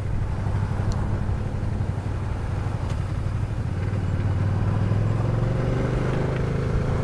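Aprilia Caponord's V-twin engine running under way at low speed, with wind and road noise. The engine note climbs about five seconds in as the bike picks up speed.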